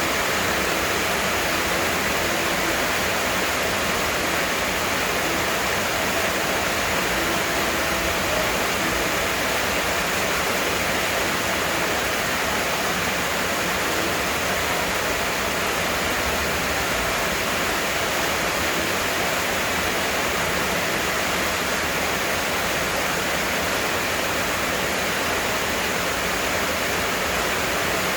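Heavy rain pouring down in a steady, dense hiss that holds even throughout.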